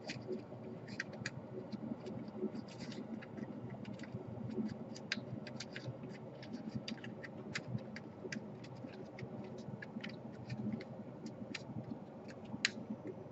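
Small irregular clicks and scratches of hands handling laptop internals and the DC power jack's cable, over a faint steady hum.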